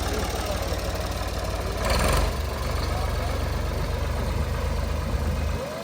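Old Ford tractor engine idling with a steady low pulsing rumble, running well again after its clogged fuel system was cleaned and the lines bled. There is a brief louder burst about two seconds in, and the low rumble drops away just before the end.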